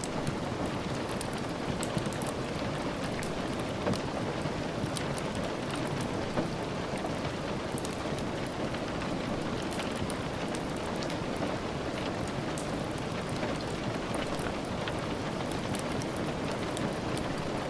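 Steady rain with many scattered short sharp ticks and crackles on top, the soft crackle of a wood fire blended with rain tapping.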